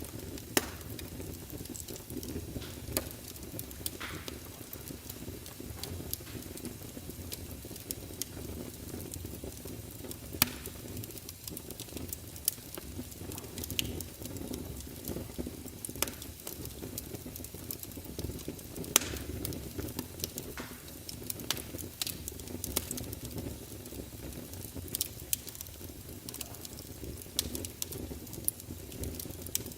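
Fire burning in a fireplace: a steady low rumble of flames with constant crackling and sharp pops, a few of them much louder than the rest.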